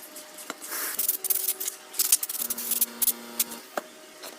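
Hands handling the metal casing of a ZX7-315C inverter welding machine: scattered sharp clicks and short scraping rubs.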